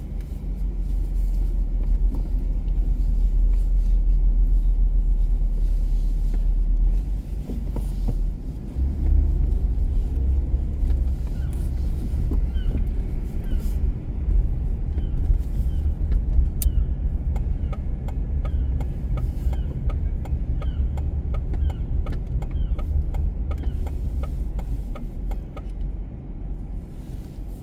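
Car driving through city streets: a steady low rumble of engine and road noise, swelling heavier about nine seconds in. A faint run of short high chirps repeats about twice a second through the middle and later part.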